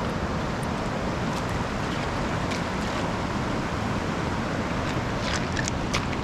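Steady rushing of a fast-flowing mountain creek near a waterfall, a loud, even noise. A few short clicks come about five seconds in.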